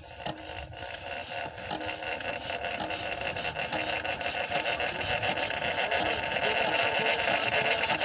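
Single-cylinder Eicher Lister-type diesel pump engine being cranked by bicycle and coming up to speed, its regular knocking growing steadily louder.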